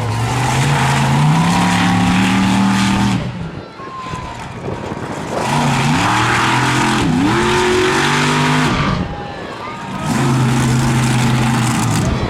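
Monster truck engine revving hard in three long bursts, its pitch climbing within each and easing off in between.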